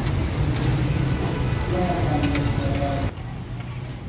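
Beef liver sizzling in oil on a large flat steel tawa, with a metal spatula scraping and clicking against the pan, over a low street-traffic hum. The sound drops noticeably quieter for about the last second.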